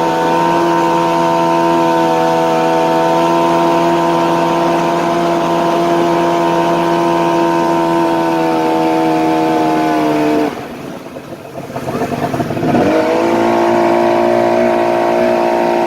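Yamaha outboard jet motor on a jon boat running steadily at cruising speed. About ten seconds in the throttle is backed off and the engine note drops away. Two seconds later it is opened up again with a quick rising rev, then settles back to a steady run.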